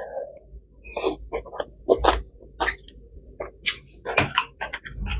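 Close chewing of a mouthful of som tam, green papaya salad, heard as irregular sharp wet mouth clicks and crunches.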